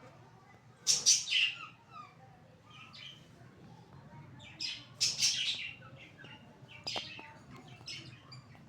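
Kitten mewing in short high-pitched cries, a handful of calls with the loudest about a second in and around five seconds in.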